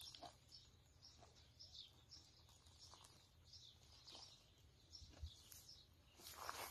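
Faint chirping of small birds, short high calls repeating about twice a second, over near-quiet outdoor background.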